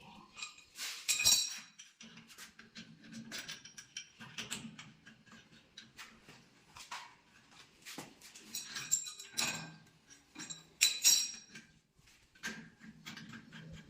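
Irregular metallic clinks and knocks, with louder clanks about a second in and again near eleven seconds.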